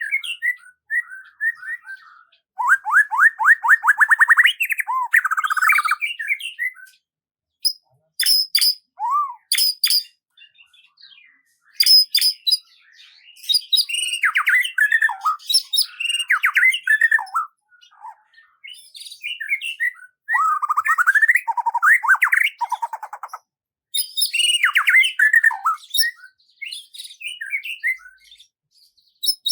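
Songbird singing in short, varied phrases of chirps, whistled notes and fast trills, with brief pauses between phrases.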